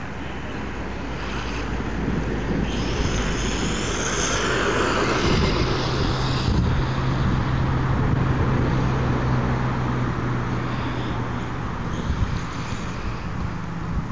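1/18-scale electric RC stadium truck running fast on a 3S LiPo: a high motor whine rises over the rush of the run and cuts off sharply about six and a half seconds in, with a steady low hum under the rest.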